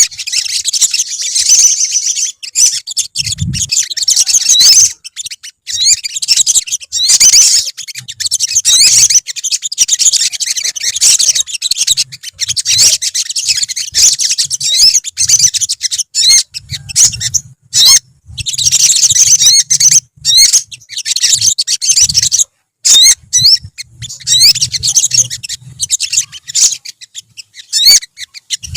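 A colony of olive-backed sunbirds singing, with rapid, high-pitched twittering chirps and quick sweeping notes overlapping each other, broken by several abrupt brief silences.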